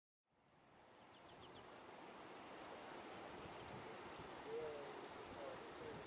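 Quiet outdoor background fading in from silence, with birds calling: scattered short high chirps, a quick run of them about four and a half seconds in, and a lower call at the same time.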